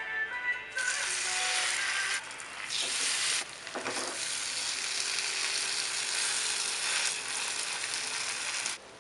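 Turon (banana spring rolls) frying in hot oil: a loud, steady sizzle that starts about a second in and cuts off shortly before the end, changing abruptly a few times.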